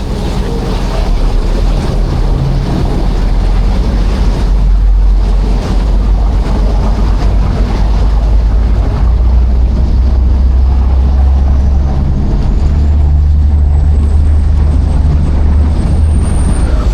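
Passenger ferry under way: a steady low engine rumble mixed with wind buffeting the microphone and the wash of sea water. A faint high whine rises slowly in the second half.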